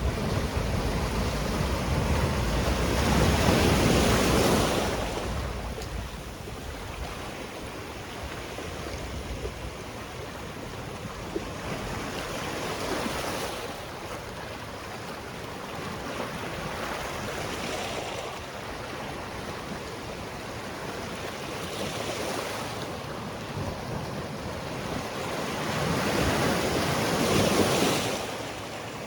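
Sea waves breaking and washing on a rocky shore, in repeated surges every few seconds, the largest about four seconds in and again near the end.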